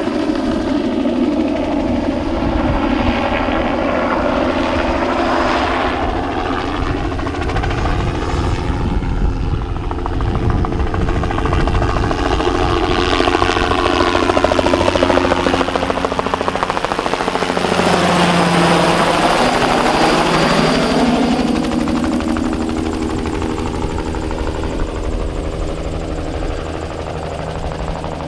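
Bell 206B-3 JetRanger III helicopter flying past on spraying runs, its turbine and two-bladed main rotor running continuously. The pitch sweeps up and down as it passes, it is loudest around the middle, and it eases off slightly near the end.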